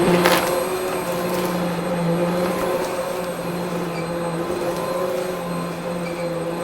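Vacuum cleaner running steadily with a constant motor hum, with a sharp crackle a fraction of a second in, like debris being sucked up.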